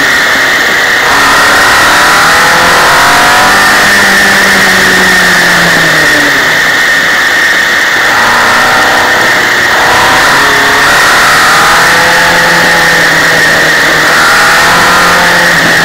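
Sidecar motorcycle's engine heard close up, pitch rising under acceleration and falling off several times as the outfit runs through a string of bends, over a steady rush of wind and road noise.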